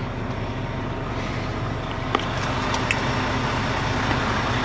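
Steady low drone of the semi truck's diesel engine, heard inside the sleeper cab, with a couple of faint clicks partway through.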